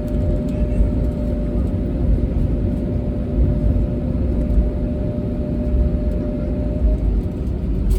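Steady low rumble of an Airbus A320neo heard from inside the passenger cabin, with a constant hum running through it.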